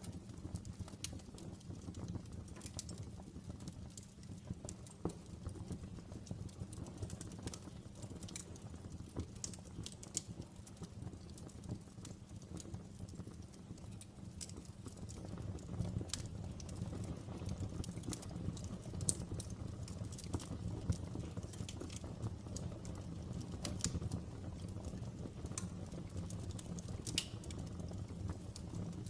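Open fire burning: a steady low rumble of flame under frequent, irregular sharp crackles and pops.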